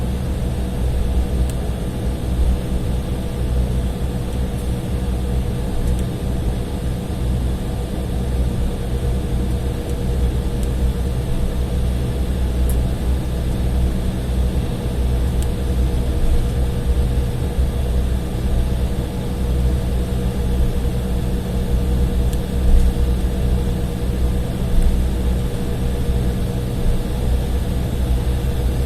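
Cabin noise inside an Embraer E175 airliner as it taxis: a steady low rumble from the idling turbofan engines and the air system, with a faint steady hum.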